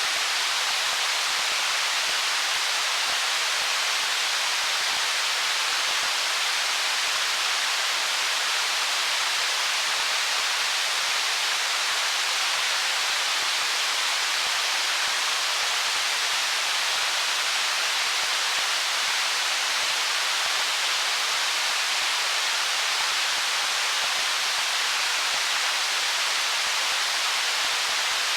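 Stream water flowing over stones: a steady, even rushing hiss that does not change.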